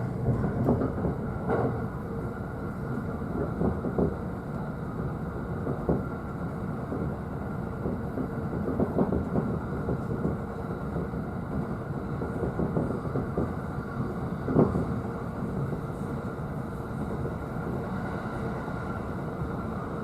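JR East E531 series electric train running on the line, heard from the upper deck of a double-decker car. A steady rumble with a faint steady hum, broken by a few sharp rail-joint clicks spread irregularly through the stretch.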